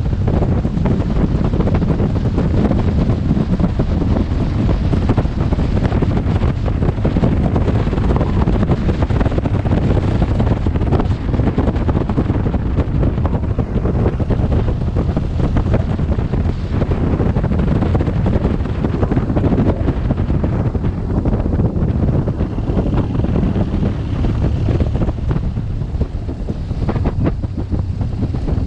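Wind buffeting a helmet-mounted camera's microphone on a moving BMW R1200GS motorcycle, a steady loud roar with the bike's flat-twin engine running underneath. It eases a little about two-thirds of the way through.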